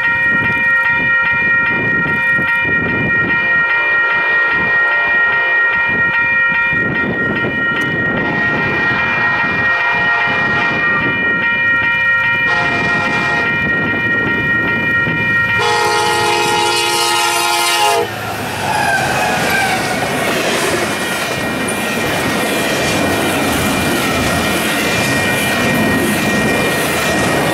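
Union Pacific diesel locomotive's air horn sounding a series of blasts for a grade crossing as the train approaches at speed; the horn's pitch drops as the lead locomotive passes, and it stops about 18 seconds in. After that, double-stack container cars rush by with a steady rumble and clickety-clack of wheels on rail joints.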